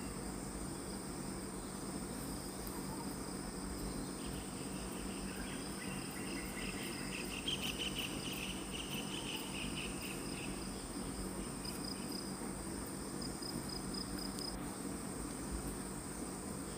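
Forest insects shrilling steadily at a high pitch, with a pulsing trill a little lower in pitch from about four seconds in until about ten, and a quicker beaded trill a few seconds later.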